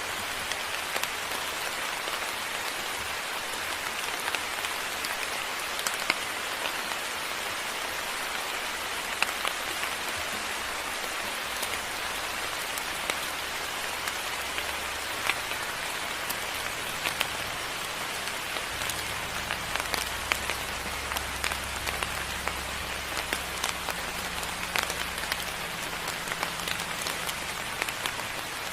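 Steady moderate rain, with many individual drops landing as sharp ticks. A low, steady rumble joins about halfway through.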